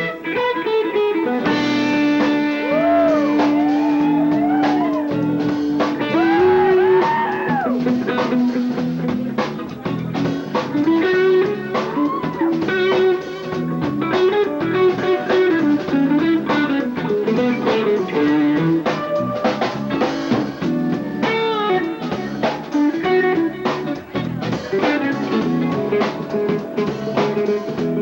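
Live rock band playing an instrumental stretch: an electric guitar lead with a long held note and bent notes over bass and drums. It is a concert recording made on a mini cassette.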